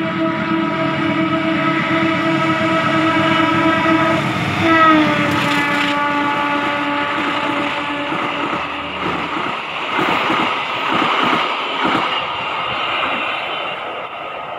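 A CC 201 diesel locomotive sounds a long horn blast as it approaches, and the horn's pitch drops about five seconds in as it passes. The passenger carriages then rumble past with wheels clicking over rail joints, fading as the train moves away.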